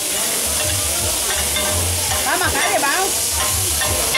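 Oil sizzling steadily on a large round flat griddle while two metal spatulas stir and scrape food across it.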